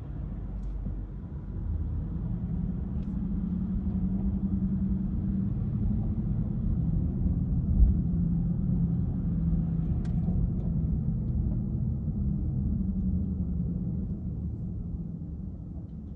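A car driving, with a steady low rumble of engine and tyres that swells early on and eases off near the end. A single thump comes about eight seconds in.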